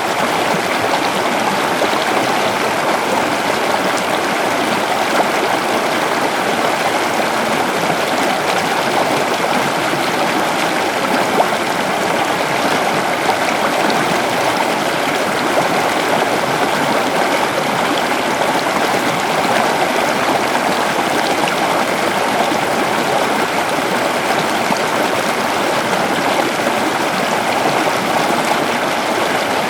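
River water flowing over rocks: a steady, continuous rushing and burbling.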